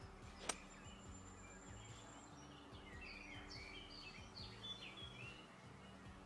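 Faint birdsong: scattered short chirps, clustered in the middle. A single sharp click about half a second in is the loudest sound, followed by a thin high whine lasting about two seconds.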